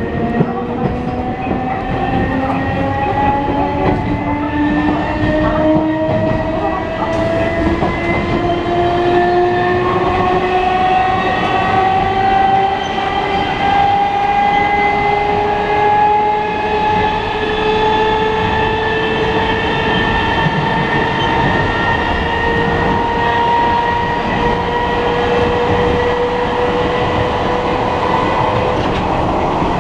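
Nose-suspended traction motors of an Enshu Railway 30-series electric railcar whining as the train gathers speed, the whine rising slowly in pitch and levelling off near the end, over the rumble and clatter of wheels on rail.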